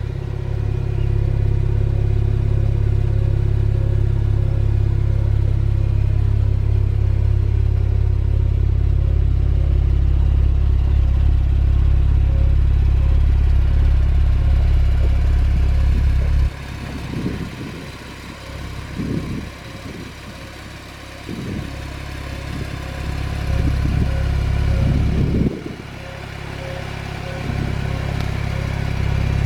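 Porsche 911 Turbo's 3.8-litre twin-turbocharged flat-six engine idling with a steady low hum. About halfway through the low hum drops away for roughly ten seconds, with a few brief swells, then comes back near the end.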